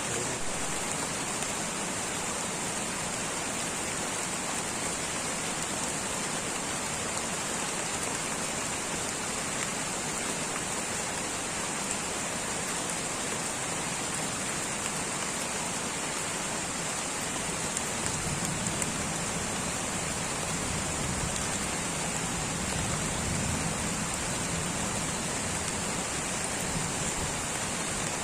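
Light rain falling steadily in a tropical rainforest, an even hiss of drops with no speech or music, a little fuller and lower from about two-thirds of the way through.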